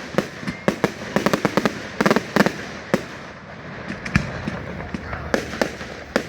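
Fireworks display: many sharp bangs and pops in quick succession. There is a dense cluster about two seconds in, a lull in the middle, and more bangs near the end.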